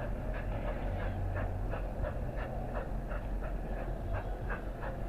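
Train running on the rails: a steady low rumble with irregular clicks and clanks, several a second.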